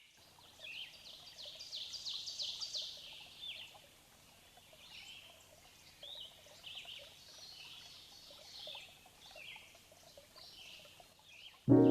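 Wild birds chirping and singing in quick runs of short high notes, busiest in the first few seconds and sparser after.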